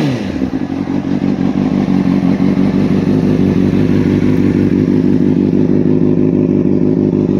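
Honda CBR600RR inline-four engine idling steadily, with a brief change in revs right at the start.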